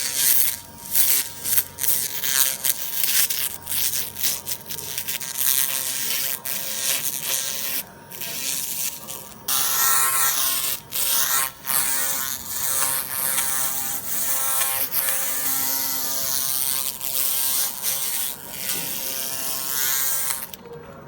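Hand-held pulsed laser cleaner ablating rust off a steel car part: a harsh buzzing hiss over a steady whine, cutting out briefly several times as the beam stops and starts, and changing tone about halfway through.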